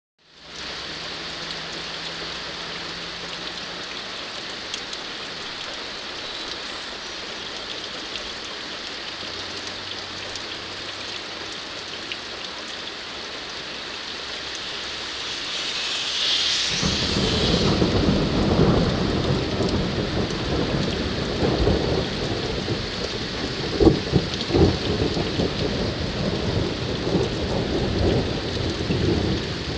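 Steady rain falling throughout. About halfway through, thunder sets in as a long low rumble that keeps rolling, with a few sharper, louder cracks later on.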